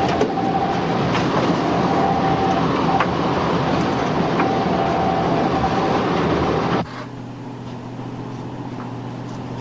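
Patrol boat under way: engines running with a steady rush of water and wind. About seven seconds in it cuts abruptly to a much quieter steady low hum.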